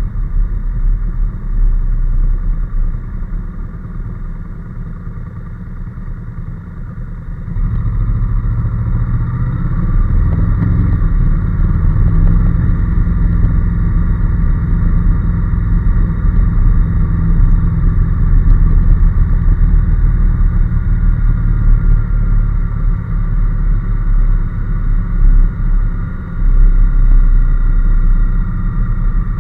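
Honda NC750S's parallel-twin engine running on the move, under a low rumble. About seven seconds in it gets clearly louder as the bike pulls harder, then holds a steady note.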